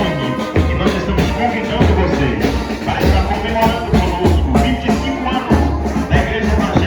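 Band music with drums over a steady low beat.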